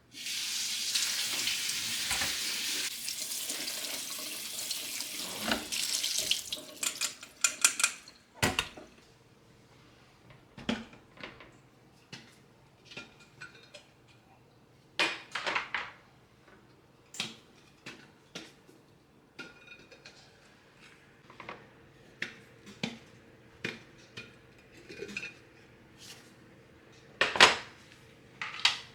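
A kitchen tap runs into the sink for about six seconds and is then turned off. After that, dishes and utensils are handled: scattered clinks and knocks, with a louder clatter near the end.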